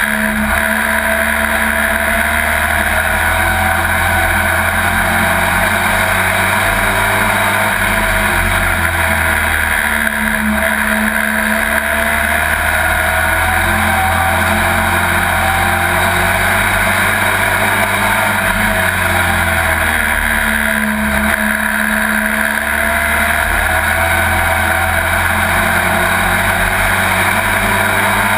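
Race truck engine heard from inside the cab at racing speed, running loud and hard. Its pitch drops and climbs again about every ten seconds as the driver lifts into the turns and accelerates down the straights.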